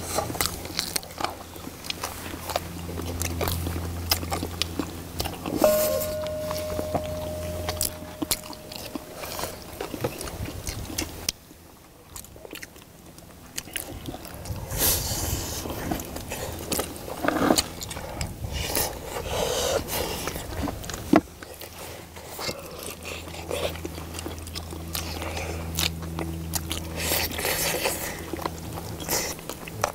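Close-up eating sounds: people chewing and biting into braised spicy chicken, with many small sharp clicks. A low steady hum sits in the background for the first third, drops away, and returns later.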